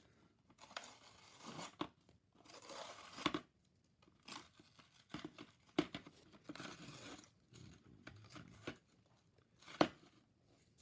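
Toy packaging being torn open: a series of separate tearing and crinkling bursts, with sharp clicks between them, the loudest near the end.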